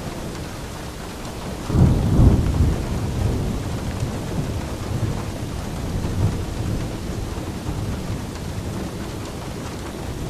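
Steady rain falling, with a roll of thunder that breaks in suddenly about two seconds in, rumbles low and fades out gradually over the next several seconds.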